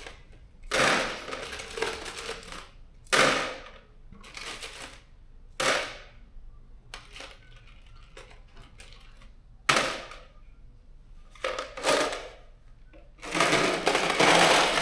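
Steel bolts and nuts clattering and rattling in bursts as they are handled and dropped into kit compartments. There are about seven separate clatters, and the longest and loudest comes near the end.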